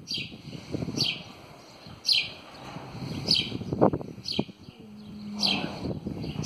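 A bird repeating a short, high, falling chirp about once a second, over low shuffling noise, with a sharp knock about four seconds in.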